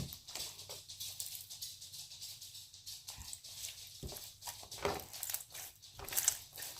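Slime being kneaded and stirred, with foam beads mixed in: irregular sticky clicks and crackles, denser near the end.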